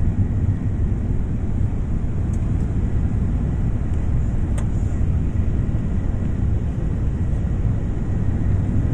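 Steady low rumble of an airliner, even throughout, with a faint click about four and a half seconds in.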